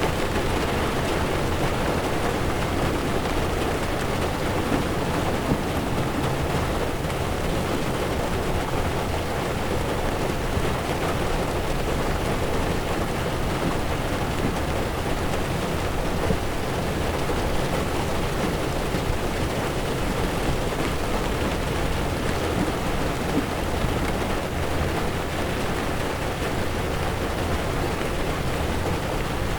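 Heavy rain falling on a car's windshield and roof, with tyres running on the wet road: a steady, unbroken hiss with a low rumble beneath it.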